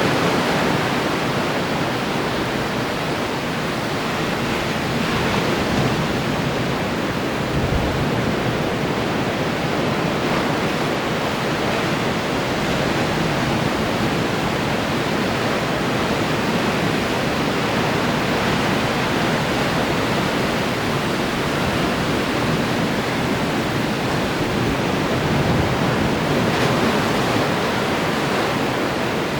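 Ocean surf breaking and washing on the shore, a continuous rushing wash with gentle swells in level.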